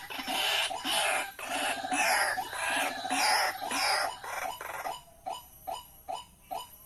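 White-breasted waterhen calling: a loud, harsh run of croaking calls that settles about five seconds in into a steady series of short clipped notes, about three a second.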